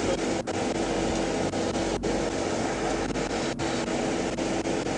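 Steady hum and hiss of an idling police patrol car, engine and cabin blower running, with a few low tones held throughout. The sound cuts out briefly a few times.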